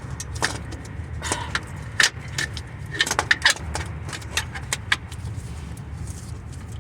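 Irregular metallic clinks and knocks as a loosened starter motor is turned and worked out from among the parts under a car, over a steady low hum.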